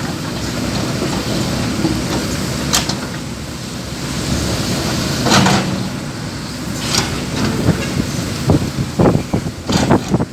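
Coal being unloaded from a truck. A steady low engine rumble runs throughout, with a sharp scrape every couple of seconds. Near the end comes a quick run of clattering knocks.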